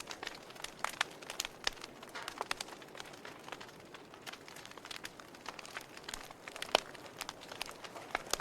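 Campfire crackling: irregular sharp pops and snaps of burning wood over a soft steady hiss, one louder snap about two-thirds of the way through.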